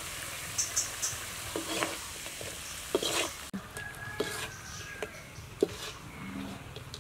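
Snake pieces sizzling steadily in a hot steel wok, with a metal spatula scraping and knocking against the pan several times as they are stirred.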